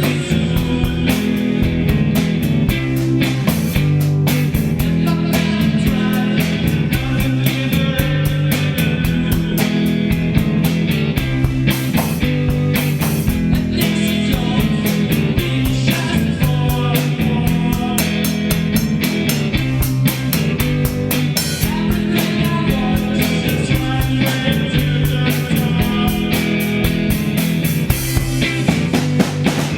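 Psychedelic rock played by a band on guitar and drums, loud and steady throughout.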